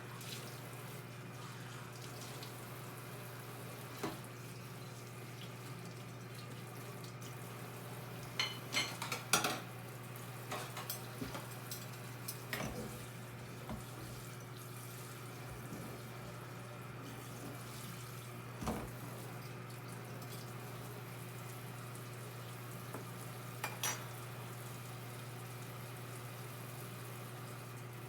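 Microwave oven running with a steady low hum while heating a mug of hot cocoa. A few light clinks and knocks come through, in a short cluster about a third of the way in and singly later.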